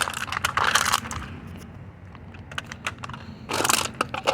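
Empty aluminum cans clattering and crunching as they are handled and stepped on to flatten them: a burst of rattling crackle for about a second, a quieter stretch with a few clicks, then another dense burst near the end.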